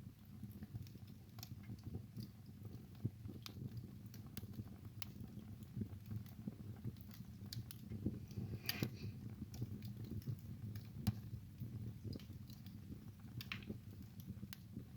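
Wood fire burning in a fireplace: irregular sharp crackles and pops over a low, steady rumble of the flames, with a brief hiss a little past halfway.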